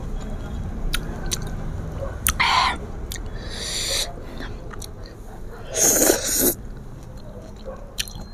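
Close-up chewing of sour green mango, with wet mouth clicks and three louder hissing sucking noises.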